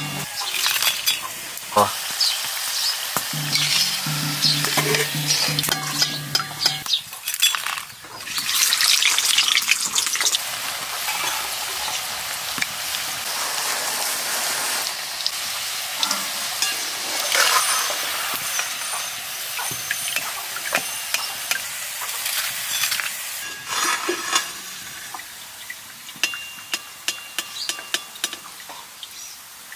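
Food sizzling as it fries in a pan while a utensil stirs it, clicking and scraping against the pan. The sizzling surges louder about eight seconds in.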